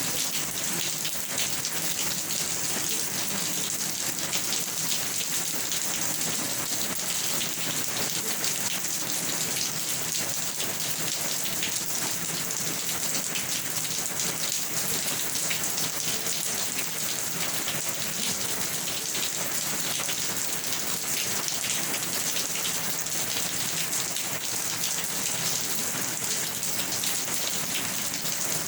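Steady rain falling and pattering on a surface, a dense even hiss of many drops.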